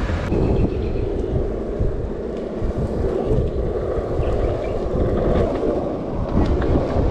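Longboard wheels rolling steadily over pavement, a continuous low rumble, with wind buffeting the microphone.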